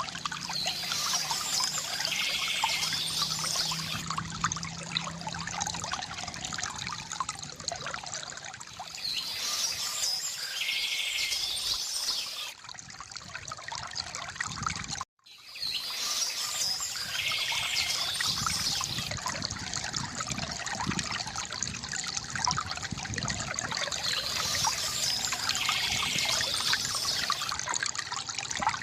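Stream water flowing steadily, with small songbirds chirping in short bursts about four times. About halfway through, the sound cuts out for a fraction of a second and then resumes.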